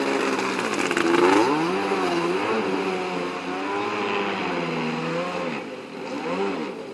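Kawasaki JS300 stand-up jet ski with a swapped-in 650 two-stroke twin engine running under throttle. Its pitch rises and falls repeatedly as the throttle is worked, and it fades somewhat near the end.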